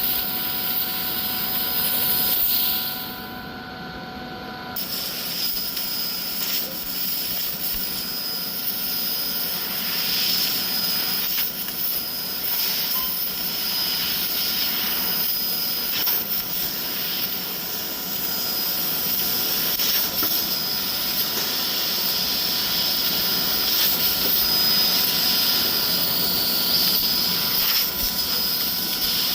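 CNC laser cutting machine running: a steady loud hiss with a machine hum and whine. The high hiss cuts out for about two seconds near the start, then returns.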